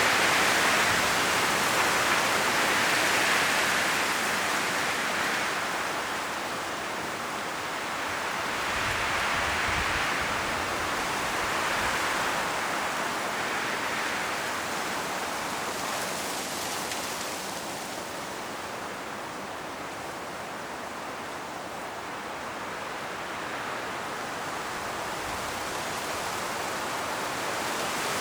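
Strong wind blowing through autumn forest trees, rustling the leaves in a steady rush that swells and eases in gusts. It is loudest at the start, with further swells about ten and twelve seconds in, and eases off in the latter half before building again near the end.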